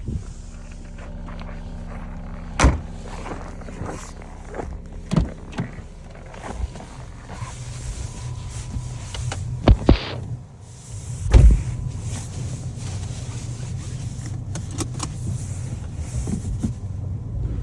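Volkswagen Golf 7 with a steady low hum of the car running, and irregular sharp knocks from the rear, the loudest about three seconds in, a double one near ten seconds and another a little later. This is the unexplained rear knock the owner is trying to track down.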